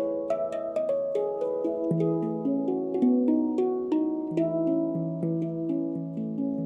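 Handpan being played: a flowing melody of struck steel notes, several a second, each ringing on and overlapping the next.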